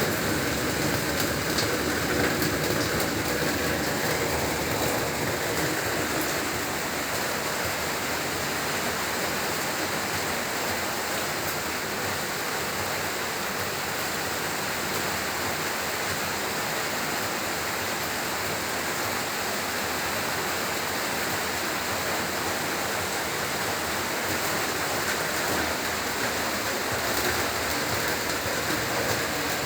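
Heavy rain falling steadily, an even, dense hiss with no breaks. A low rumble under the rain fades out in the first few seconds.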